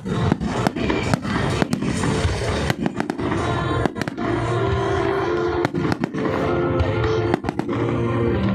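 Fireworks display: an irregular run of sharp bangs and crackles from bursting shells, over music with held notes that grows clearer from about halfway through.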